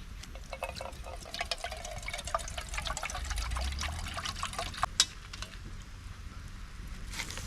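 Water splashing and trickling in a quick run of small splashes for about five seconds, with one sharper click near the end of the run, then quieter.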